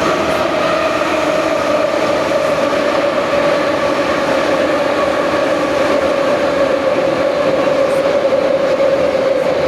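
Retro Moscow Metro train pulling out of the station: a steady motor whine with higher overtones over rumbling running noise, its pitch sagging slightly toward the end.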